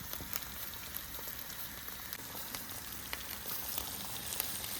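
Sausages sizzling and spitting in a frying pan: a steady hiss with many small pops and crackles.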